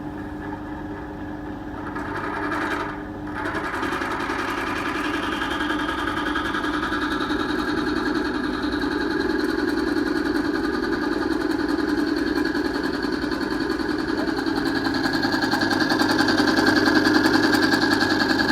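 Timken-type lubricity test machine running, its test bearing turning under load in oil with an anti-wear additive. A steady motor and friction noise with a whine that steps up a few seconds in and then grows slowly louder.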